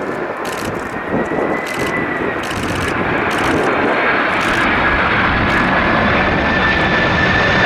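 A FedEx MD-11 trijet on final approach. Its jet engines make a rushing noise that grows steadily louder as it nears, with a steady high fan whine over it.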